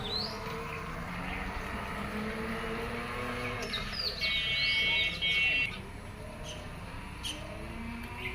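Small birds chirping in short high calls, with a louder steady high-pitched call lasting about a second and a half near the middle. A low engine-like hum runs faintly underneath.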